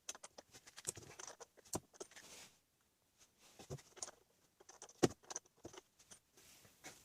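Irregular clicks and small knocks of a ratchet and socket on the oil filter cover as it is worked loose, with one sharper knock about five seconds in.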